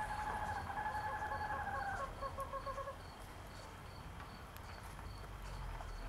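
A bird's call: a rapid run of repeated notes that stops about three seconds in, over a steady high insect ticking of two or three ticks a second.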